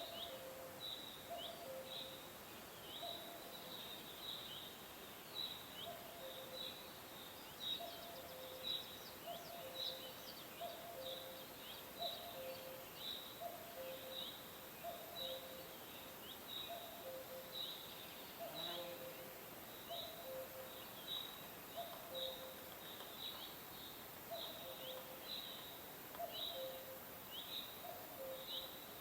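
Birds calling: short high falling chirps a couple of times a second, over a lower two-note call, a higher note then a lower one, that repeats about once a second.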